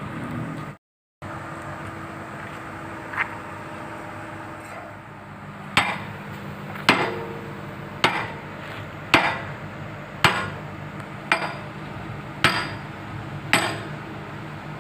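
Hammer blows on steel, ringing metal on metal: a steady series of eight strikes about a second apart, starting about six seconds in, driving a bucket pin into the excavator bucket's bushings. A single lighter knock comes a few seconds earlier.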